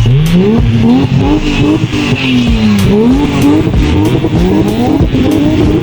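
A car engine revving up and down repeatedly, its pitch climbing and dropping several times in quick succession.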